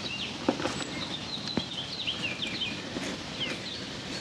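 Birds chirping in quick short falling notes over and over, with a few sharp clicks in between.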